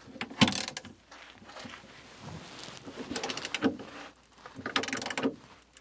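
Socket wrench on an extension turning a 9/16 lag bolt into wood, heard as three short bursts of ratcheting clicks.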